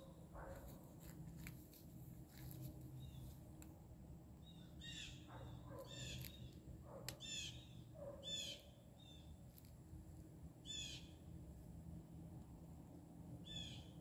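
Faint songbird calls outdoors: short, falling chirps given singly or in quick pairs, repeated every second or so from about five seconds in.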